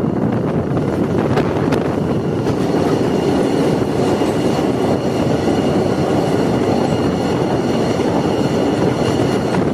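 Indian Railways train running, a steady loud rumble with faint high steady tones over it.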